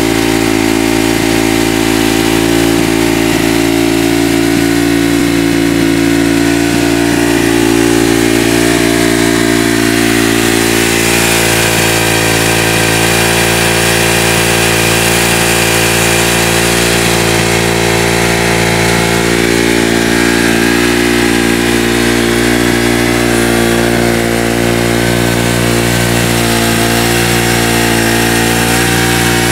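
Kawasaki KX250F's single-cylinder four-stroke engine idling steadily.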